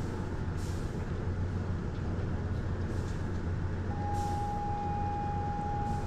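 Steady low mechanical hum, with a steady high whine joining in about four seconds in.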